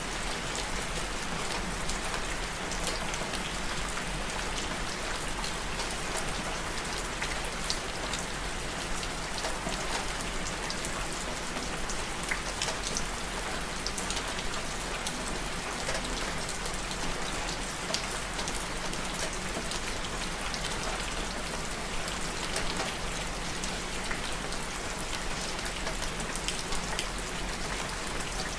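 Steady rain falling, a constant hiss with many scattered drops ticking.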